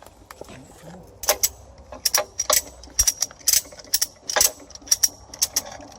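A metal mechanism clicking: an uneven run of sharp metallic clicks, about two or three a second, starting about a second in.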